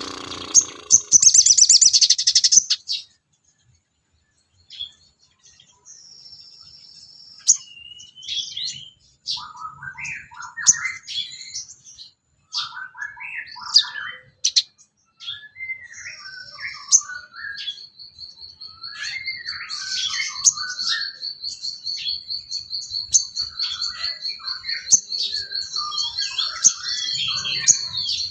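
Songbird song of the kind used as masteran tutoring material: a loud burst of high calls at the start, a short silence, then varied short chirps and warbling phrases. About halfway in, a long steady high trill starts and runs on beneath the chirps.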